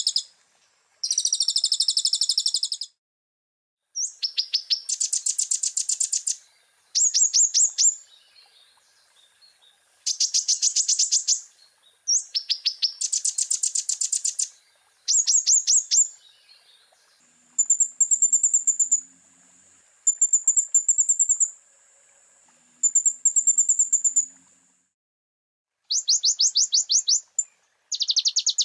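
Konin, a sunbird, singing a loud, high-pitched song in repeated bursts of rapid trilled notes, each burst lasting one to three seconds with short pauses between. Around the middle it switches to thinner, higher, drawn-out phrases. It is a full-repertoire song, mixed with imitations of other birds' calls.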